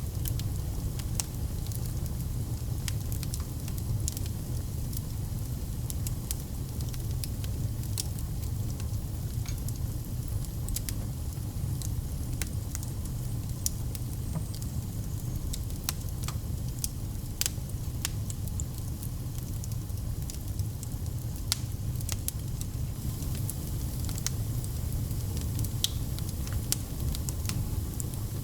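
Wood fire burning in a fireplace: a steady low rumble of flames with scattered, irregular sharp pops and crackles.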